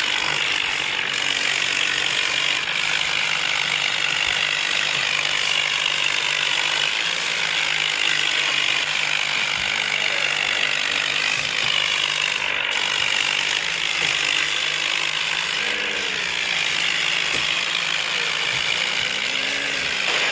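Tractor diesel engine running hard at high throttle under heavy load, straining against another tractor in a tochan tug-of-war pull. A steady, continuous mechanical clatter with brief rises and falls in pitch late on.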